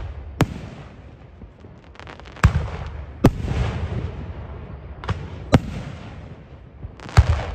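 Aerial firework shells bursting overhead: about six sharp bangs at uneven intervals, each trailing off in a low rumbling echo.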